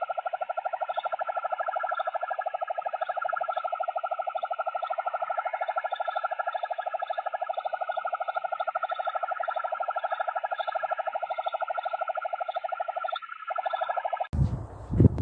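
An unexplained outdoor drone, the kind reported as a 'sky trumpet': a loud, steady hum made of several pitches at once, pulsing fast and evenly. It cuts off abruptly near the end, and low wind rumble on the microphone takes over.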